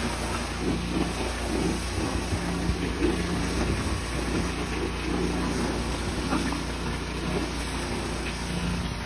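An engine running steadily at idle, a low even hum, under a steady hiss.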